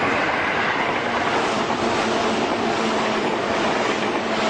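Steady running noise of an electric commuter train, an even wash of sound with a faint whine held throughout.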